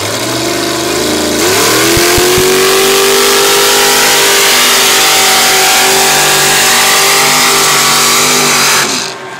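Chevy S10 mud truck engine revving up, then held at full throttle in a loud, steady run for about seven seconds before cutting off shortly before the end.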